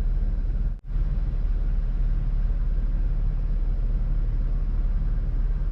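Steady low rumbling noise from inside a car, the hum of the vehicle and storm around it, broken by a sudden brief dropout just under a second in.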